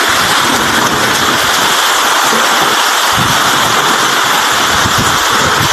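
Heavy rain pouring down in a storm: a steady, loud rush with no breaks.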